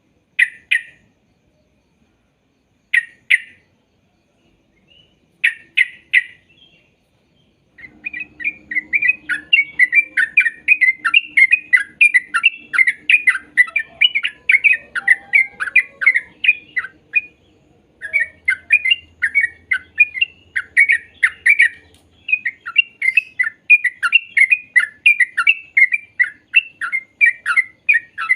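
Yellow-vented bulbul (trucuk) singing: a few short separate calls at first, then from about eight seconds in a long run of quick, chattering notes, broken by two brief pauses.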